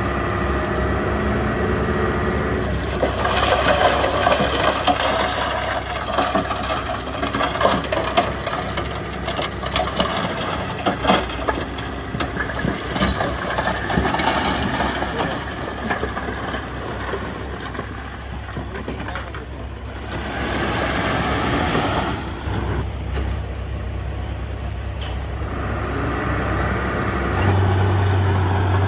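Heavy diesel earthmoving machinery running, with irregular knocks and clatter through the first half. Near the end a steady engine tone settles in, like idling.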